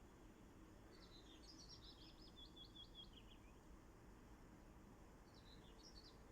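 Faint songbird song: a fast trill of repeated notes that steps down in pitch, starting about a second in and lasting some two and a half seconds, then a short burst of chirps near the end, over a low steady background hum.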